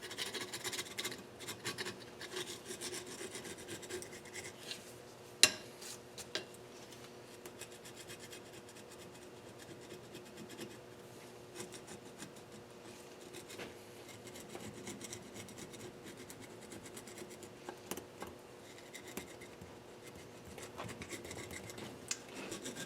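Hand scraping and rubbing on a Nissan KA24DE cylinder head, taking off old silicone and carbon deposits in irregular rasping strokes, with a single sharp tap of the tool about five seconds in.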